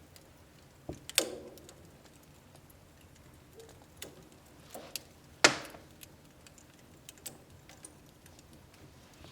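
Wood fire crackling in a home wood-burning stove: scattered small ticks and snaps, with two sharp, loud pops, one about a second in and one about halfway through.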